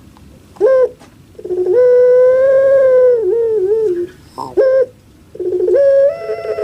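Puter pelung dove (Streptopelia risoria) calling: a short note, then a long held, drawn-out note that ends in a wavering tail, and the call starting over about five seconds in.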